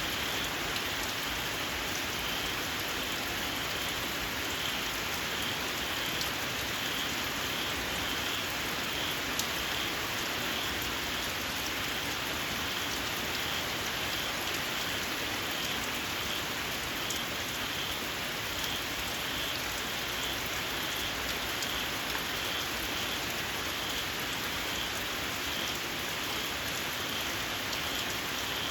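Steady rain falling, with small frogs in the rain giving short, shrill calls that repeat at an even pace.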